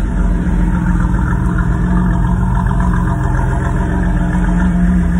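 1995 Chevrolet Camaro convertible's engine idling steadily, a continuous low hum.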